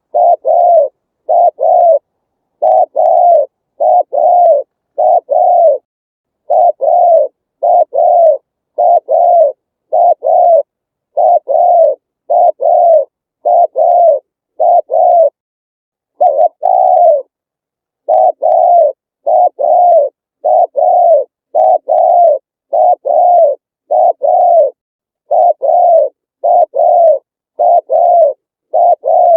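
Spotted dove cooing: a long series of short, soft coo notes, each dipping slightly in pitch, given in runs of two or three with brief pauses between.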